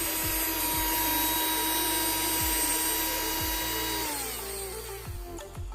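Freshly repaired electric drill motor running at a steady high speed, a whine, then winding down with falling pitch about four seconds in as the power is cut.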